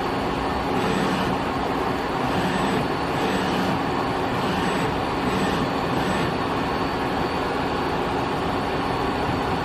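Nexturn SA-20B CNC Swiss-type automatic lathe running: a steady mechanical hum and hiss, with several brief swells of hiss in the first six seconds.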